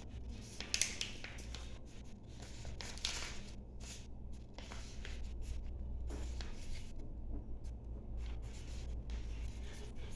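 Hands handling paper, with irregular short rustles and scrapes as it is rubbed and creased, over a steady low hum.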